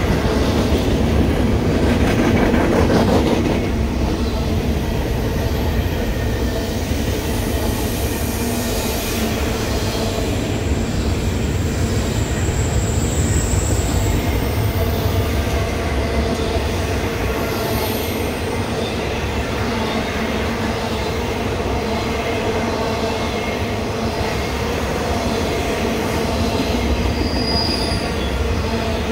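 Intermodal freight train rolling past, a steady rumble of cars on the rails, with a few brief high-pitched wheel squeals, one about halfway through and another near the end.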